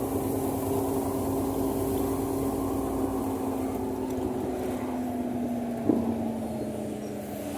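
A motor vehicle running, a steady low rumble with an engine hum that slowly drops in pitch, and one sharp tap about six seconds in.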